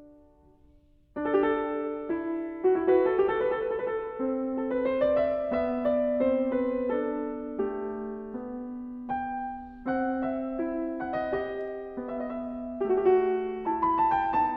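Background piano music: notes played in a flowing melody over a steady lower line, coming in about a second in after a brief quiet moment.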